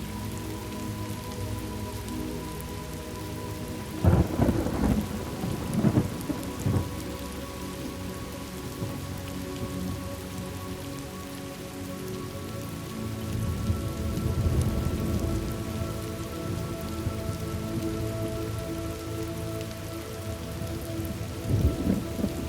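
Thunderstorm: steady rain falling, with sharp thunder claps about four seconds in and again near the end, and a long rolling rumble in the middle.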